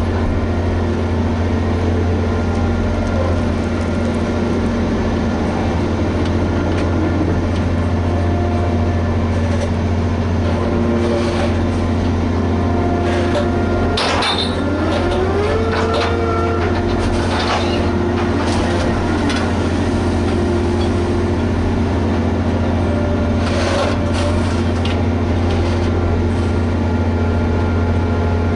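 Liebherr HS 8200 dragline's diesel engine running steadily under working load, a low drone with steady tones, while the machine digs. A few sharp metallic clanks come through, and near the middle a tone rises and then holds as the drive works harder.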